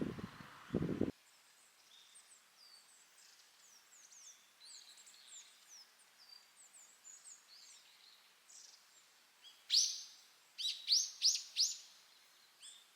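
Small birds chirping and calling, with many faint quick chirps and, about ten seconds in, a louder run of about five sharp calls. A brief burst of noise is heard in the first second before it cuts off.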